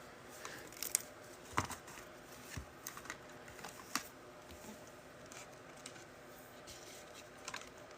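Scattered light clicks and taps at an irregular pace, the sharpest about a second in, at about one and a half seconds and at four seconds.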